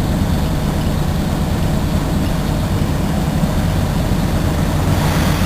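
Cement tanker truck's diesel engine running steadily with a low hum, and a short burst of hiss rising right at the end.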